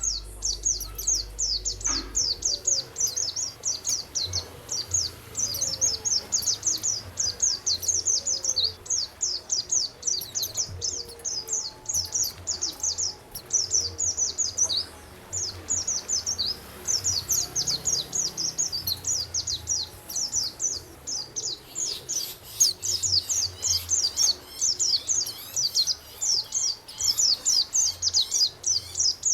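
Songbird singing a fast, continuous chatter of short, high, falling notes.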